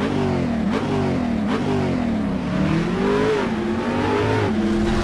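A car engine accelerating hard. Its pitch climbs and drops sharply twice in the first two seconds, as with quick upshifts, then rises and falls more gently.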